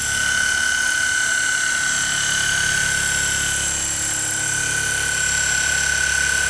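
Large battery-powered RC coaxial helicopter in flight, its electric motor and twin rotors making a steady high whine.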